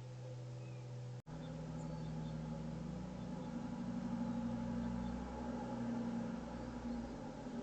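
A low, steady engine-like hum that swells in the middle and eases off near the end, after the sound cuts out for an instant about a second in.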